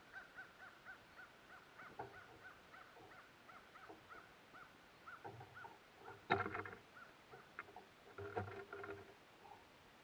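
A bird calling at the feeder in a quick run of short, repeated notes, about four a second. About six seconds in, and again around eight and a half seconds, there are louder knocks and scrabbling at the feeder close to the microphone.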